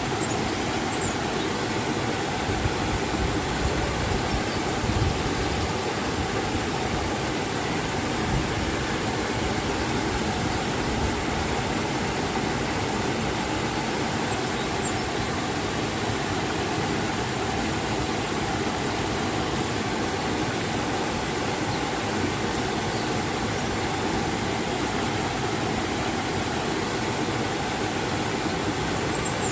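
River water and a waterfall rushing steadily, an even, unbroken roar of water.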